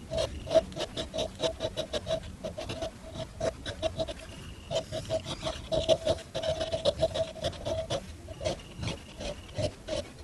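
Rapid back-and-forth scraping or rubbing strokes, several a second, each with a squeaky tone, pausing briefly a couple of times.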